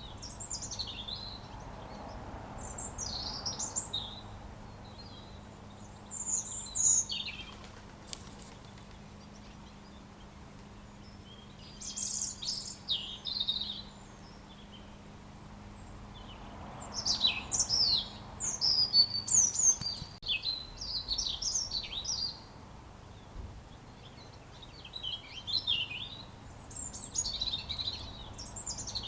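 A robin singing: short phrases of quick, high, thin notes that slide up and down, with pauses of a second or more between phrases and a longer run of phrases in the middle.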